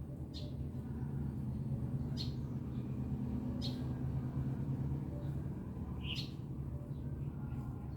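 A small bird gives four short, high chirps a second or two apart, over a steady low hum.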